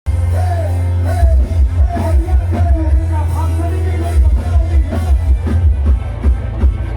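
Loud music with very heavy bass and a sung melody, played through a rot hae, a Thai parade truck carrying a big sound system; a steady beat comes through more strongly in the last few seconds.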